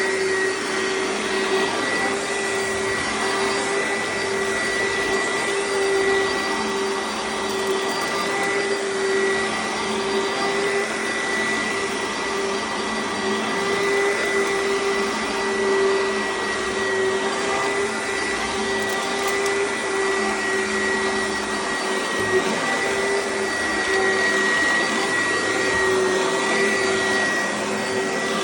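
Oreck XL upright vacuum cleaner running steadily while vacuuming, its motor giving a constant whine over the airflow noise.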